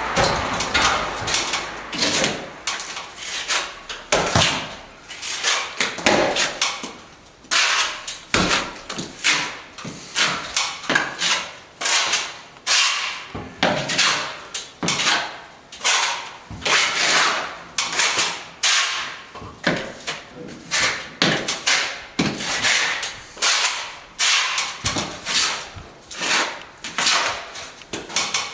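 Plastering trowel or float scraping and rubbing over wet render on a wall, in repeated strokes about one a second.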